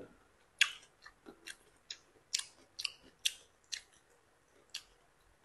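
A person chewing crisp kale stalks: a string of sharp, crisp crunches at an uneven pace of about two a second, stopping near the end.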